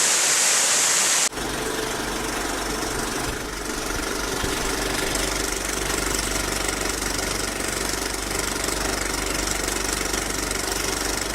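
Rushing waterfall noise that cuts off abruptly about a second in, followed by an engine idling with a steady hum.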